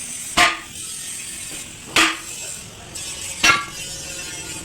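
Hammer striking metal, three blows about a second and a half apart, each with a short metallic ring.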